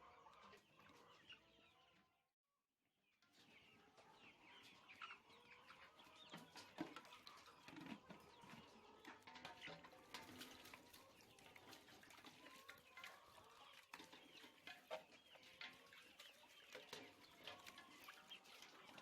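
A flock of chickens clucking and chirping, with many short overlapping calls. The sound drops out briefly about two seconds in, then the calls continue.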